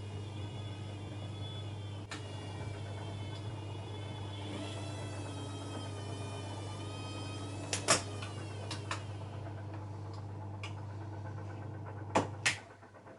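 Bosch Maxx WFL 248Y washing machine running, its drum motor giving a steady hum with a wavering whine above it, and a few sharp clicks or knocks. Two loud clicks come near the end, and then the sound falls quieter.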